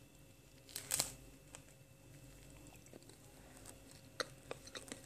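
Crisp pan-toasted tortilla wrap crunching as it is bitten, with one sharp crunch about a second in, followed by faint scattered crunches of chewing.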